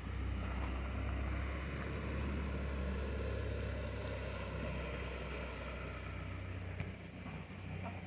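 A motor vehicle running close by, a steady deep engine rumble that fades out near the end.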